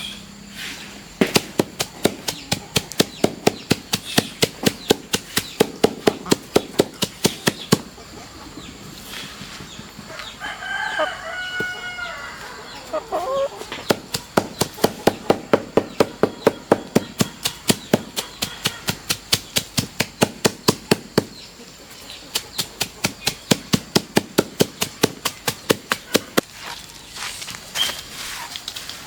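Long runs of rapid, evenly spaced knocks, about three to four a second, broken by short pauses. A rooster crows about ten seconds in.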